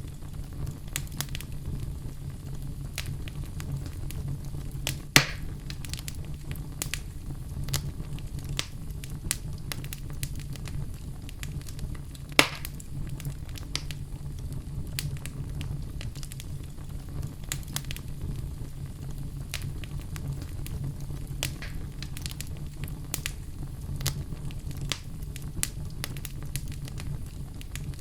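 Wood fire crackling in a fireplace: many small snaps and ticks over a steady low rumble, with two louder pops, about five seconds in and about twelve seconds in.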